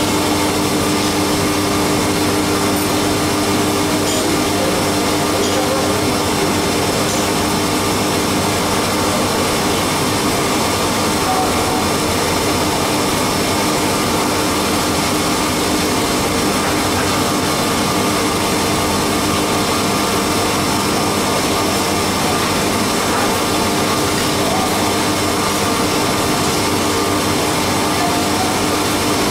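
Haas CNC milling machine running steadily during 4th-axis machining, several steady tones over a constant hiss.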